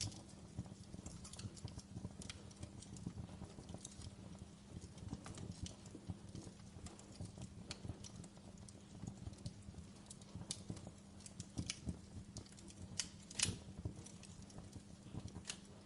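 Wood fire in a fireplace burning steadily with a low rumble, and logs crackling and popping irregularly. A sharper cluster of pops comes a little after thirteen seconds in.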